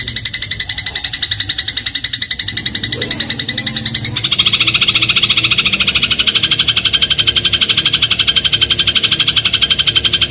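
Eurasian tree sparrow (burung gereja) giving the 'crot' song, a fast rattling trill of rapidly repeated high notes, around a dozen a second. The trill drops to a somewhat lower pitch about four seconds in and runs on.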